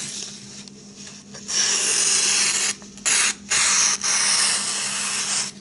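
A Bark River knife slicing through paper in several scratchy, rasping strokes, two long ones with two short ones between. The rasp comes from an edge that is coarse and no longer sharp.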